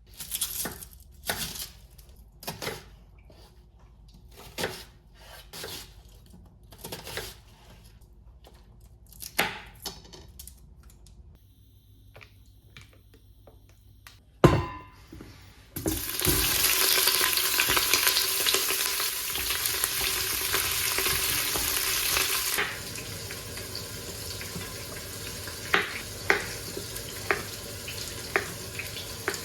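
Kitchen cooking sounds. A series of short scrapes and stirring noises is followed by a sharp knock about halfway through. Then comes a loud steady rush of noise lasting about six seconds, which drops to a quieter steady hiss with scattered pops near the end.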